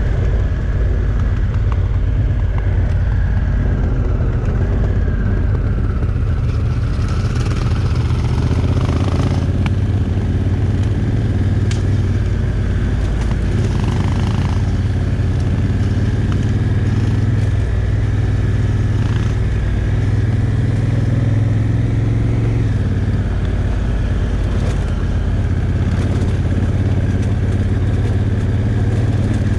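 Honda Africa Twin's parallel-twin engine running steadily at an easy cruising pace on a gravel track, heard from a camera mounted on the bike, with a few small clicks along the way.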